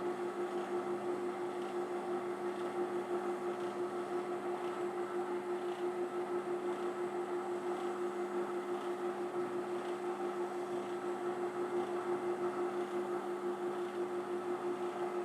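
Electric workshop machinery running steadily, a motor drone with two steady pitched tones and a light regular pulsing, from the sanding setup used to smooth the insides of the porthole holes.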